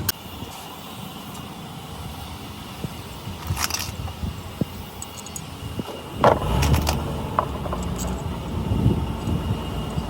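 Workshop noise: a few sharp knocks and clinks over a low rumble that grows louder about six seconds in.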